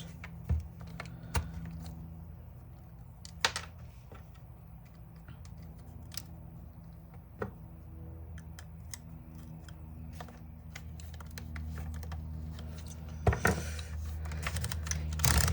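Scattered light clicks and taps of small plastic and metal drill parts being handled and fitted while the drill housing is screwed back together, with a cluster of clicks near the end. A steady low hum runs underneath.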